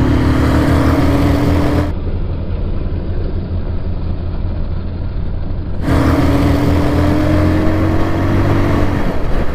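Motorcycle engine running under way, its note rising steadily as the bike accelerates for about two seconds, then a duller, lower stretch for about four seconds, then rising steadily again for about three seconds.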